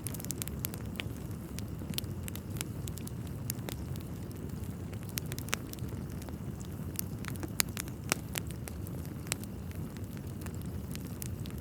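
Wood fire burning in a fireplace: a steady low rumble of flame with irregular sharp crackles and pops from the burning logs, two louder snaps a little past halfway.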